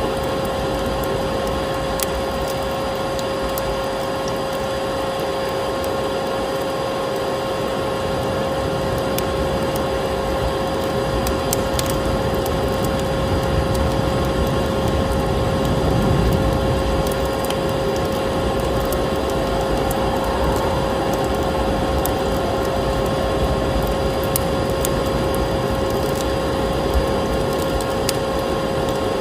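Electric vacuum cleaner running steadily with a constant motor whine, mixed with a crackling wood fire in a fireplace giving scattered sharp pops and snaps.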